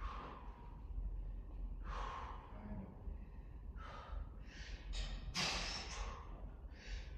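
A person breathing hard from exertion during a weightlifting set: a string of short, hissing breaths and forceful exhales at uneven spacing.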